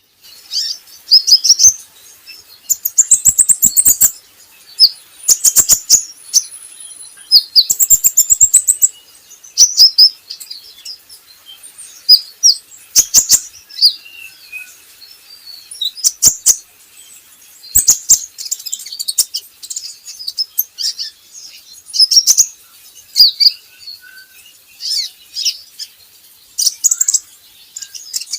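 Kolibri ninja sunbird calling in a string of short bursts of high, rapid chirps and trills, about a dozen phrases with brief pauses between them: a lure call used to set a young bird singing.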